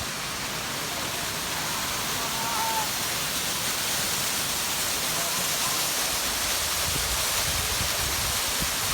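Steady rushing of a waterfall, a dense even hiss of falling water; a low rumble joins in near the end.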